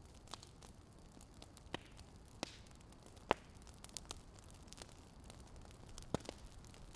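Crackling wood fire, faint: irregular sharp pops and snaps over a soft steady hiss, the loudest pop about three seconds in.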